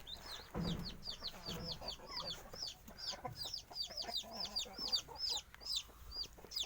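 Newly hatched chicks peeping rapidly, high short peeps about four or five a second, with a hen clucking low underneath.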